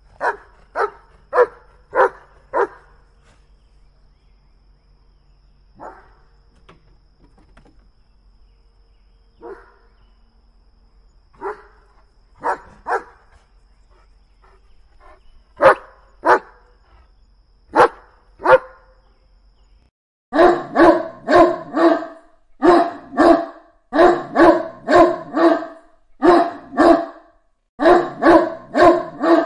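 German Shepherd barking: a run of five quick barks, then single barks and pairs with pauses between, over a faint low hum. About twenty seconds in it changes to a Great Dane barking in rapid, evenly spaced runs of about three barks, with no pauses.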